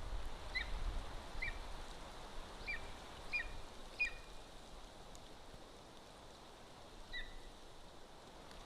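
A bird's short, high chirping calls, about six spaced irregularly, mostly in the first half and once more near the end, over a steady hiss and a low outdoor rumble.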